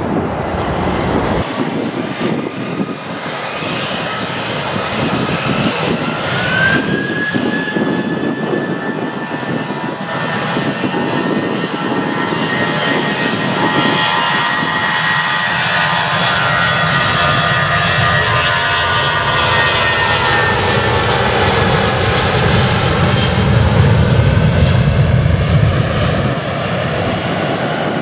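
Jet airliner's engines at takeoff thrust on departure: a high turbine whine rises a few seconds in and holds over a steady rush. A deep rumble builds and is loudest near the end as the aircraft passes.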